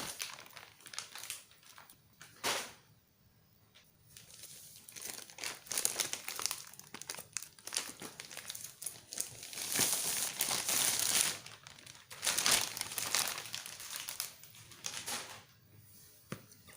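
Plastic packaging crinkling and rustling in irregular spells while being unwrapped, with a few sharp clicks.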